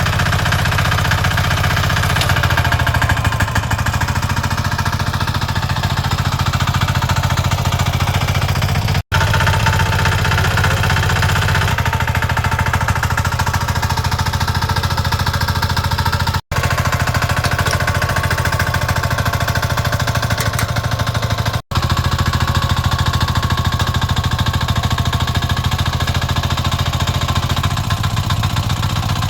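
Single-cylinder 173F air-cooled diesel engine running steadily with a fast, even knocking clatter. The sound drops out for an instant three times.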